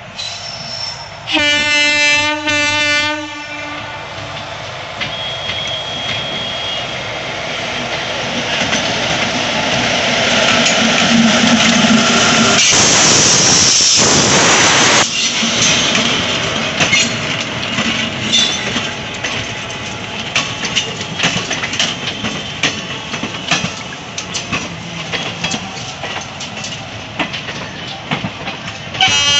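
Electric locomotive's horn sounding for about two seconds, then the train passing close by: a rising rush that peaks about halfway through as the locomotive goes past, followed by the rapid clickety-clack of the passenger coaches' wheels over the rail joints. The horn sounds again at the very end.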